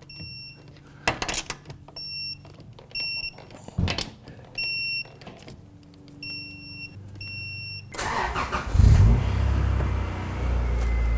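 A torque wrench tightening wheel lug nuts, with a few clicks and about five short high beeps. About eight seconds in, the 2000 Acura Integra Type R's four-cylinder engine cranks, starts and runs steadily at idle.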